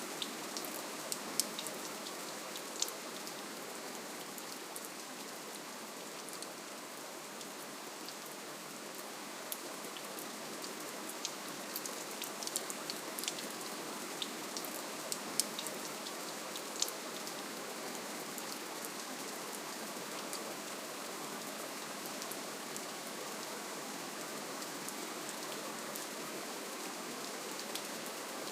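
Soft, steady rainfall: an even hiss of rain with scattered sharp drop ticks, a few more of them in the middle of the stretch.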